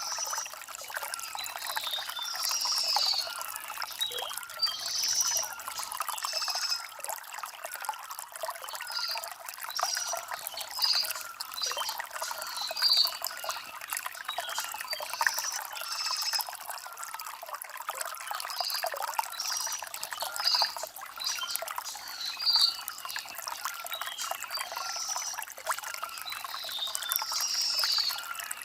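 Shallow stream trickling and burbling over river stones, with birds chirping in short repeated calls throughout.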